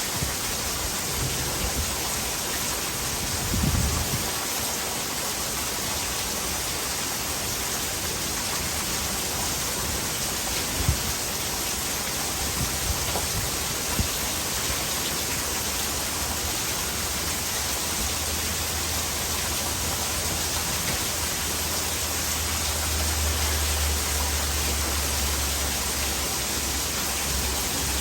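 Heavy rain falling steadily, with rainwater pouring into a gutter, an even hiss throughout. A few soft knocks come through, and a low rumble sets in about halfway through.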